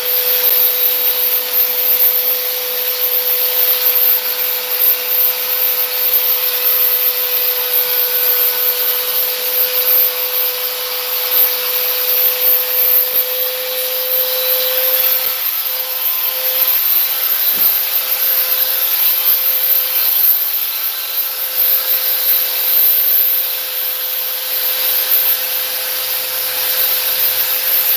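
Electric sander running steadily, its pad rubbing over cured body filler to knock it down and smooth it.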